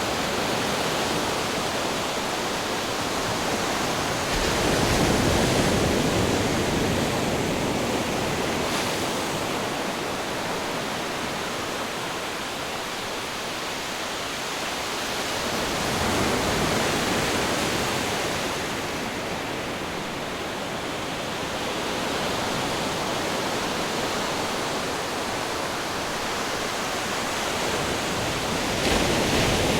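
Ocean surf: a steady rushing wash of breaking waves that swells louder three times, roughly every eleven seconds, as waves come in.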